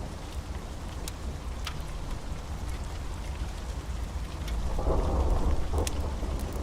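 Steady rain with a low thunder rumble that swells about two-thirds of the way through, and scattered sharp crackles of a wood fire.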